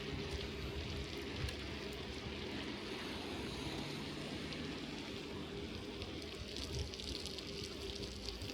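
Bicycle tyres rolling over wet, snowy streets: a steady, watery hiss.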